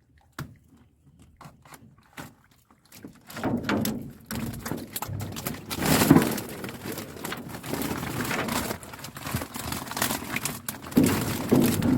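A few light knocks, then from about three seconds in a dense, irregular pattering and splashing: a trap's catch of silver barb flapping in water.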